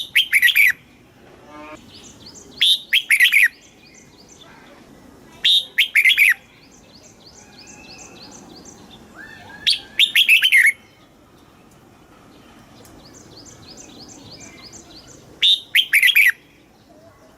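Red-whiskered bulbul singing: five loud, short whistled phrases, each under a second, a few seconds apart. Fainter rapid chirping fills the gaps between phrases.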